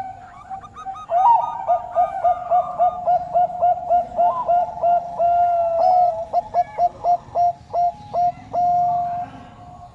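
A dove cooing: a fast run of short repeated coos, with a few longer held notes, starting about a second in and stopping shortly before the end.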